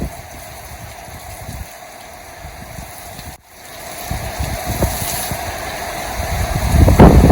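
Strong wind buffeting the microphone over the steady hiss of rain. The sound breaks off briefly about three and a half seconds in, then the gusts build up louder near the end.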